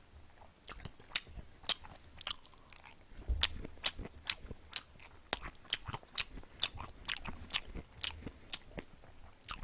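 A person chewing a mouthful of grilled beef skewer (sogogi sanjeok) close to a microphone: a steady run of sharp mouth clicks and smacks, about three a second.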